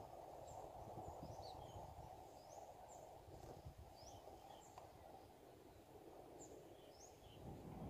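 Near silence: faint outdoor background noise with scattered short, high chirps of small birds.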